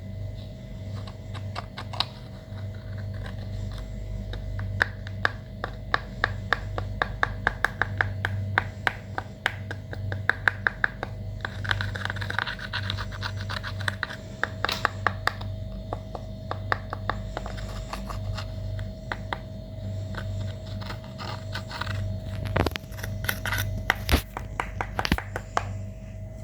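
Slime being mixed and worked, with rapid runs of sharp clicks and scratchy scraping, densest in the first half and with a few louder clicks near the end, over a steady low hum.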